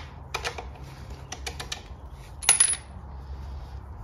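Metal engine parts clinking as they are handled: a run of light metallic clicks and taps, then a louder clink with a short high ring about two and a half seconds in.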